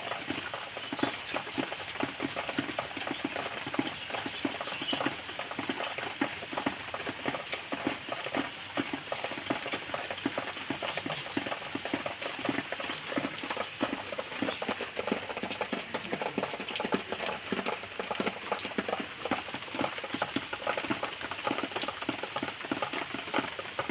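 Steady rain pattering: a continuous stream of many irregular drops and drips.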